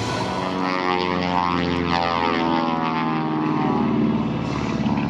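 Propeller airplane's piston engine droning as the plane flies past, its note shifting in pitch as it goes by.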